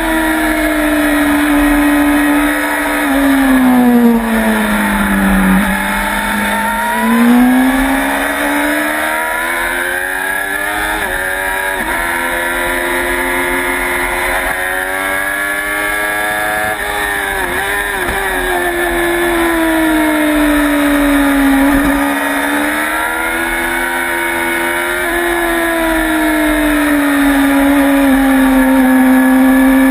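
Sport motorcycle engine at high revs on a racetrack, its pitch falling as it slows and shifts down for a corner about four to six seconds in, then climbing again under acceleration, with smaller dips and rises through later corners. Wind noise rushes over the microphone.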